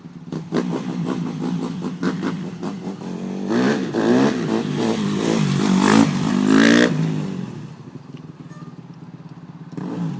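Dirt bike engine running, with a few short throttle blips early on, then revved hard up and down for a few seconds around the middle before settling back.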